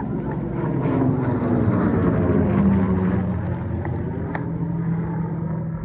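Hawker Hurricane's Rolls-Royce Merlin V12 engine on a low fly-past, growing louder as it approaches and dropping in pitch as it passes, then droning away.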